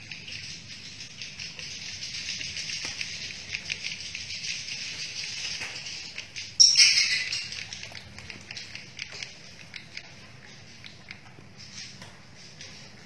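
Many swiftlets twittering and clicking densely, with a steady low hum underneath; about six and a half seconds in a much louder burst of chirping close by flares up and fades over a second or so.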